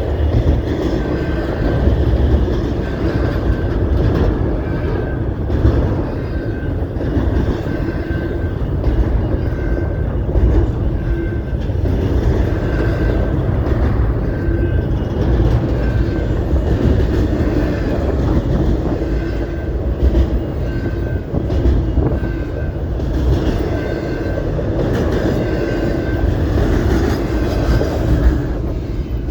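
CP Rail train cars rolling past with a steady low rumble and some clickety-clack. A short faint squeak recurs about once a second.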